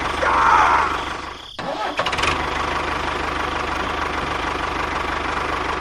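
A small engine running with an even low chug. The sound cuts out briefly about a second and a half in, then comes back abruptly.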